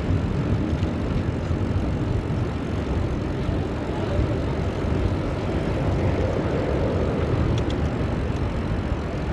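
Steady rush of city traffic and wind noise, heard while riding a bicycle along busy streets.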